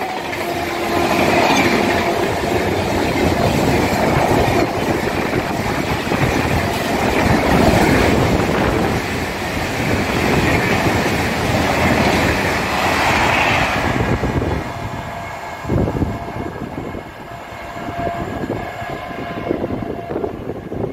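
Express train's passenger coaches running past at high speed: a loud, steady rush of wheel-on-rail noise with clickety-clack, with the locomotive's horn trailing off in the first two seconds. The noise drops away after about 14 seconds, with one sharp thump a little later.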